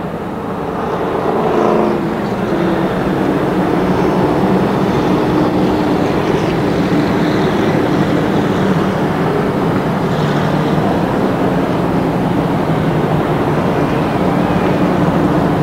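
Race truck engines running steadily as the field circulates under caution, with one engine's pitch rising briefly about a second in.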